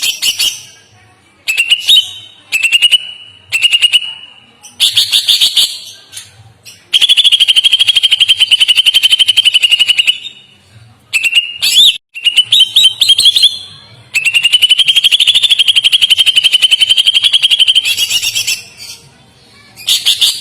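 A songbird singing a series of rapid, evenly pulsed trills at one steady, high pitch. Short phrases of about a second alternate with two long trills lasting several seconds each.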